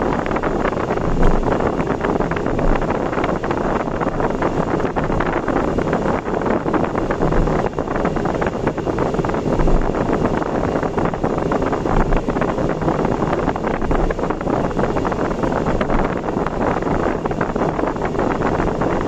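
Steady road and wind noise of a vehicle travelling at expressway speed, with uneven low rumbles of wind buffeting the microphone.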